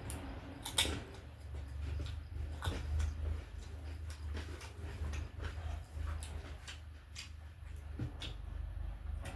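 Close-up eating sounds: a person chewing, with irregular wet clicks and smacks of mouth and food over a low hum.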